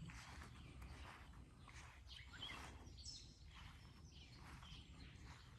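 Faint outdoor ambience: a few short, high bird chirps over a low steady rumble.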